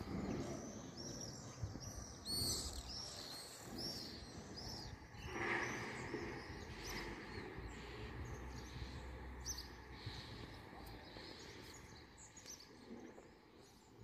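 Small birds chirping: many quick high chirps in a dense run for the first few seconds, then sparser calls, with one louder call about halfway through, over a low steady background rumble.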